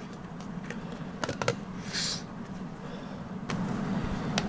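Plastic clicks and knocks of a cordless handheld vacuum's filter and dust cup being fitted back together, with a short scrape about two seconds in.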